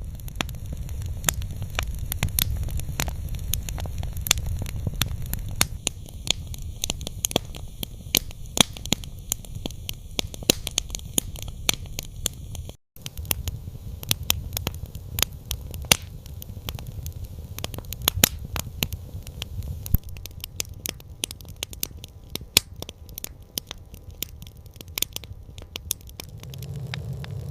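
Campfire crackling, with many sharp irregular pops and snaps over a low steady rumble, and a momentary dropout about halfway through.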